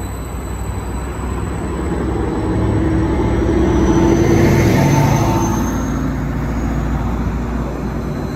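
Greater Anglia Class 755 bi-mode train pulling away along the platform on diesel power: a steady low engine and wheel rumble that swells to its loudest about halfway through, with a faint whine rising slowly in pitch.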